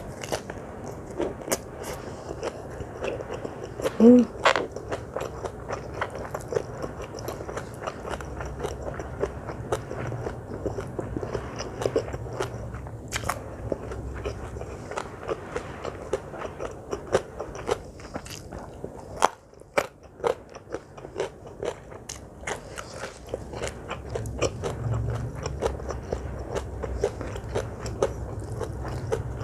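Close-miked chewing and crunching of food, with many small crisp bites and mouth sounds throughout. One short pitched sound about four seconds in is the loudest moment.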